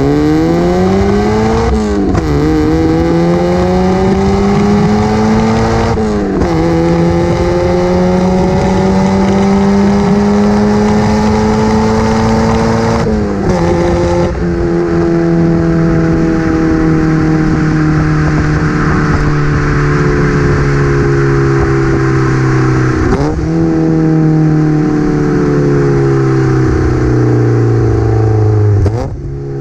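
Mazda MX-5 Miata NA's inline-four through a small BBK cat-back exhaust with no resonator, only a rear muffler, making a raspy note under hard acceleration. The pitch climbs and drops back at gear changes about 2, 6 and 13 seconds in; later it sags slowly, with two more brief breaks near 23 seconds and near the end.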